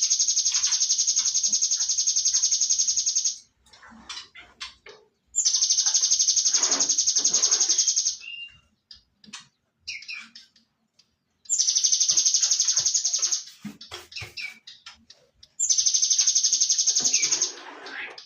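Cinereous tit (gelatik batu) singing: four bouts of a very rapid, high trill, each about two to three seconds long, with short chips and notes in between.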